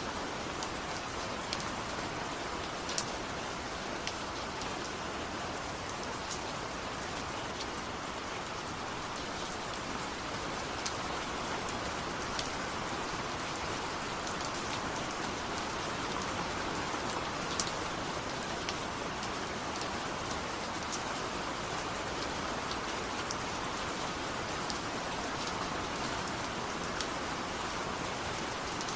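Steady rain falling, a constant hiss with scattered sharper drops ticking on a surface.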